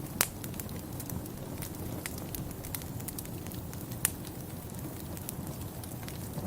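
Wood fire in a fireplace crackling over a steady low rumble, with scattered sharp pops, two louder ones just after the start and about four seconds in.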